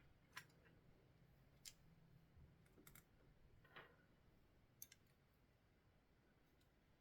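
Faint, scattered clicks and taps, about six in five seconds with one quick double, from small parts and tools being handled while a radio transceiver is taken apart.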